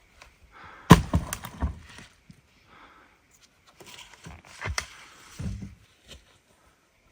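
A series of knocks and thuds, with one sharp hard impact about a second in, a few quicker knocks just after it, and another cluster of knocks and a duller thud a few seconds later.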